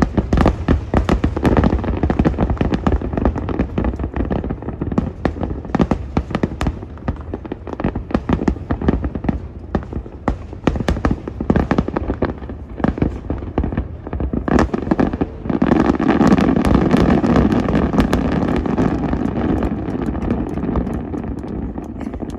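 Aerial fireworks bursting in rapid, overlapping bangs and crackles, many per second. About fifteen seconds in the barrage thickens into a dense low rumble, then eases off toward the end.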